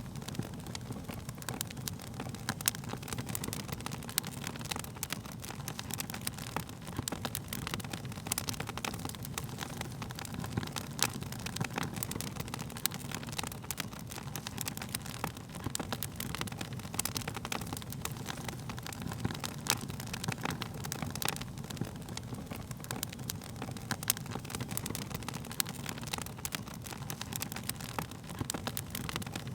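Wood fire crackling: frequent irregular sharp pops and snaps over a steady low rumble of burning flames.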